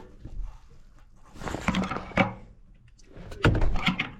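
Knocks and clunks of hands and tools working inside an air handler cabinet while a blower motor is being wired, in two short clusters about two seconds apart.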